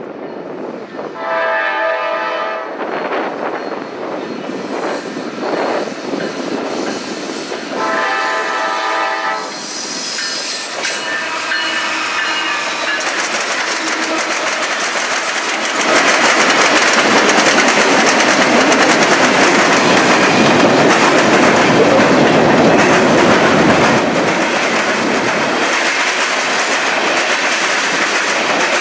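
Nathan K5LA five-chime air horn on a GE ES40DC freight locomotive blowing several long blasts in the first half. From about halfway through, the locomotive and its freight cars roll past loudly, wheels clattering over the rail joints.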